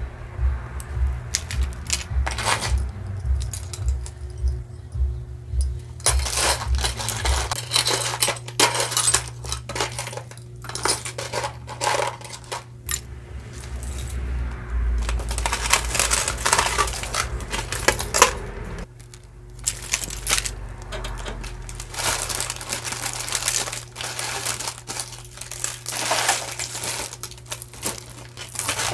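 Costume jewelry pieces and beads clinking and clattering again and again as they are handled and dropped into a box, over background music.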